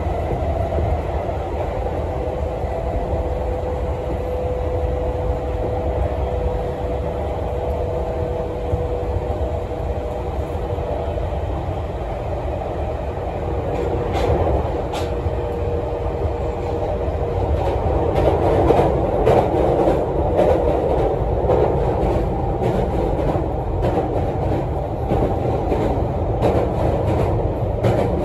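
An E231-series electric commuter train running at speed, heard from inside the passenger car: a steady rumble of wheels on rail with a held whine over the first ten seconds or so. From about eighteen seconds in it grows louder and rougher, with irregular rail clatter.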